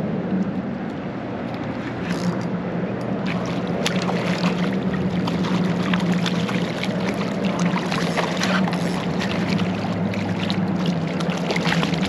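Steady hum of the kayak's Minn Kota electric trolling motor holding position on Spot-Lock, over water noise with many scattered small ticks and knocks.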